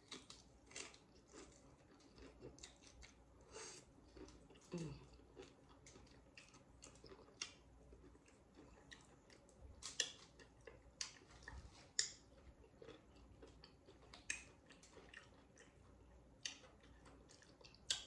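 Close-up chewing and crunching of nachos with tortilla chips: scattered, irregular crisp crunches and small clicks, the loudest about ten and twelve seconds in.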